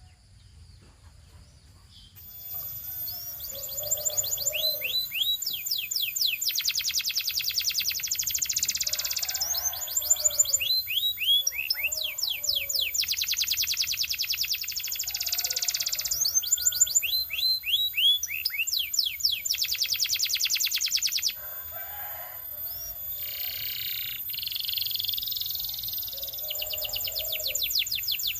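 Belgian canary singing. After about two seconds of quiet, a long song runs on, made of fast rolling trills and quick falling whistled notes, with short breaks between phrases.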